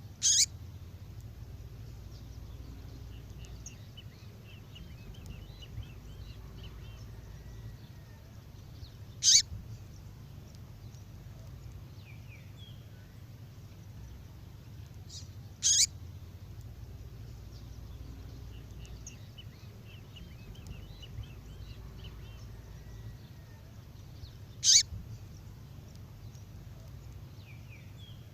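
Recorded female songbird call: four short loud calls spaced several seconds apart, with faint twittering between them. The sequence repeats in a loop about every fifteen seconds.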